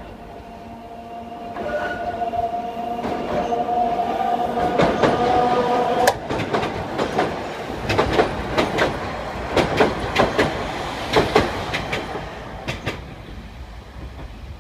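Sangi Railway Hokusei Line narrow-gauge electric train crossing a bridge overhead: a whine rising slightly in pitch as it approaches, then a run of sharp clacks as its wheels pass over the rail joints from about six seconds in, fading near the end.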